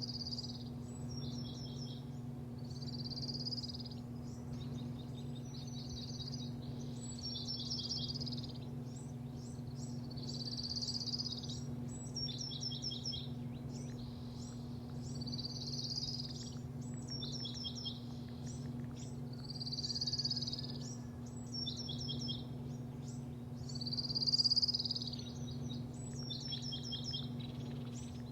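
A songbird singing the same short song over and over, a slurred whistle followed by a quick run of clipped notes, every two to four seconds. Under it runs a steady low hum.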